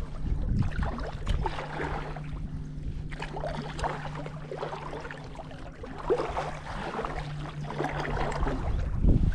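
Water splashing and gurgling around a small boat, over a steady low hum from a motor.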